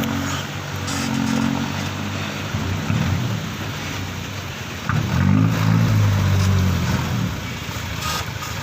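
Truck engine labouring in mud, revving up louder with a shifting pitch about five seconds in and easing off near the end.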